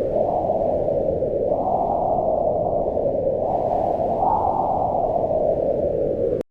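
Wind blowing as a deep, steady rush that swells and eases in gusts, rising twice in the middle. The sound cuts out for an instant just before the end.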